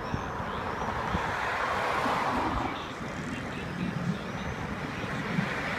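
Road traffic noise: a steady rush of vehicles, swelling as cars pass about a second in and again near the end.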